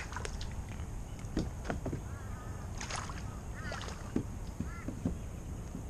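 A bird calling several times in short, arched calls over light water splashing and knocks close to the microphone.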